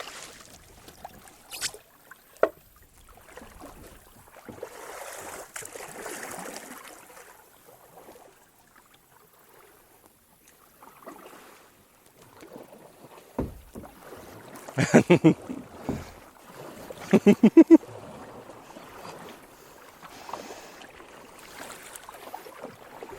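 Kayak paddling on a creek: soft splashing of paddle strokes and moving water, with a few sharp knocks. About two-thirds of the way through come two loud, pulsed, voice-like bursts.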